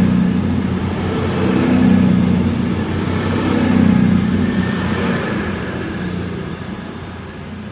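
CrossCountry Class 221 Super Voyager diesel-electric multiple unit pulling out under power, its underfloor diesel engines running loud as the cars go by, swelling about every two seconds, then fading as the rear of the train moves away.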